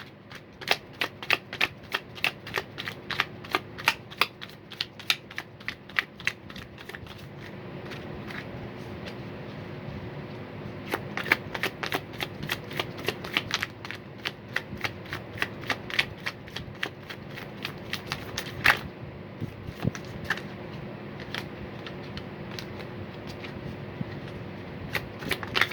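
A deck of tarot cards being shuffled by hand: runs of quick card-edge clicks, densest in the first seven seconds and again in the middle, then scattered clicks with one sharp snap a little before the end.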